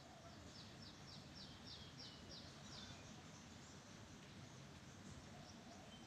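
A small bird calling: a quick run of about eight short, high notes, each falling in pitch, about three a second, starting about half a second in. It is heard faintly over a low background hiss.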